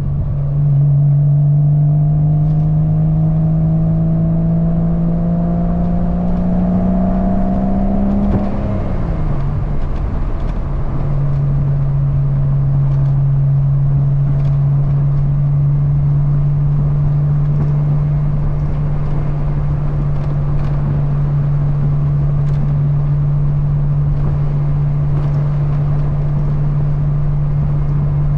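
Porsche 986 Boxster's 2.5-litre flat-six through an aftermarket cat-back exhaust, pulling with pitch rising slowly. About nine seconds in it drops back, then drones steadily at cruise. Wind noise from the open top runs underneath.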